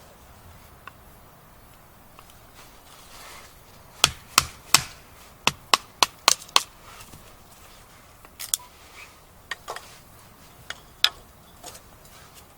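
Batoning firewood: a wooden baton knocks on the spine of a Nessmuk knife to drive it through a log. A quick run of about eight sharp knocks comes about four seconds in, then a few scattered knocks.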